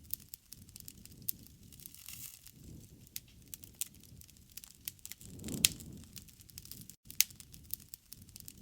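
Wood campfire crackling: irregular sharp snaps and pops over a low rumble of burning, with a louder pop about five and a half seconds in.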